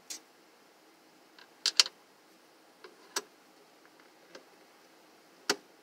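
Several sharp clicks and ticks from a screw being turned in a plastic heater housing. The last click, near the end, is the screw dropping into its existing threads in the plastic.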